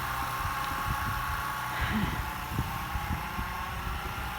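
An engine idling steadily, with a faint steady whine above it.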